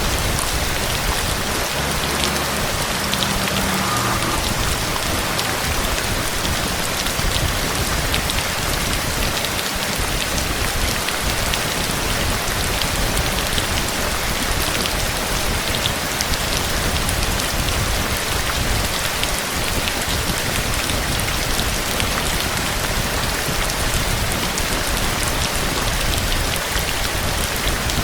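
Heavy rain falling in a storm: a steady, even hiss with countless scattered drop ticks.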